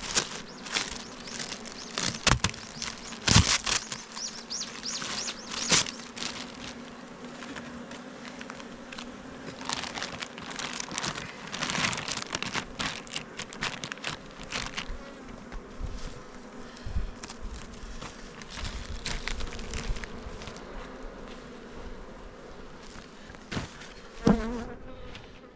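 Honeybees buzzing steadily around an open hive, with repeated sharp knocks and clatters of the wooden hive box and frames being handled.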